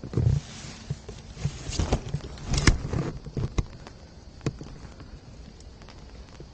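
Footsteps on a forest path, a run of uneven steps with a few sharp clicks, stopping about three and a half seconds in. After that only scattered faint drip-like ticks of light rain remain.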